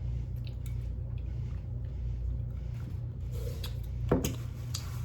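Quiet close-up chewing and mouth sounds from a mouthful of butter chicken, with a few faint clicks and one sharper click about four seconds in, over a steady low hum.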